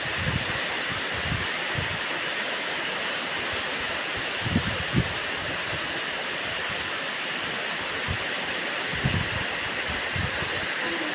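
Steady rain falling, an even hiss, with a few brief low thumps around the middle and again later.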